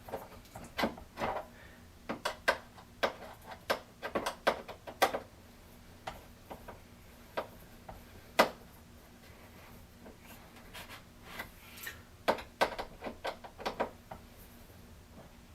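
Irregular sharp plastic clicks and knocks as a water reservoir docking bay is handled and fitted onto a Keurig K-2550 coffee maker. They come in two clusters, with one louder knock in the quieter stretch between them.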